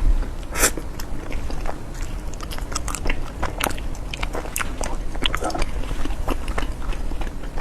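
A person chewing and biting soft cream cake close to the microphone. Many quick wet, sticky mouth clicks follow one another unevenly.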